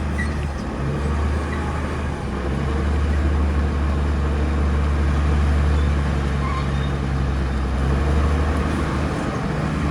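Heavy diesel engine of earthmoving machinery running under load, a steady low drone.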